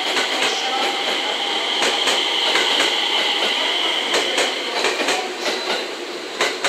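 JR West 227 series electric train pulling out of the station, its wheels clacking over rail joints, the clacks coming closer together near the end as it gathers speed. A steady high whine runs under the clacks and fades out about four and a half seconds in.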